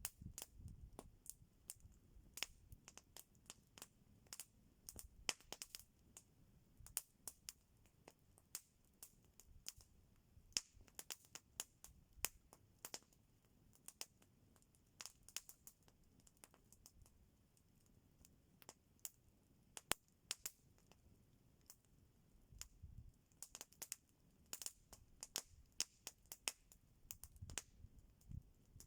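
Wood campfire crackling: irregular sharp pops and snaps, sometimes several in quick succession, over a faint low rumble.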